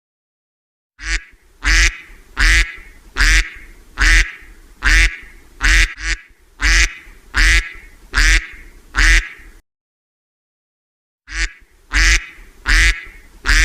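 Duck quacking in a loud, evenly spaced run of about eleven quacks, roughly one every three quarters of a second. The run stops about nine and a half seconds in, then starts again after a gap of under two seconds.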